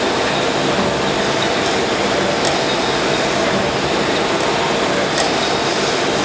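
Snow double column surface grinder running: steady, loud machine noise, with a faint high tick about every three seconds.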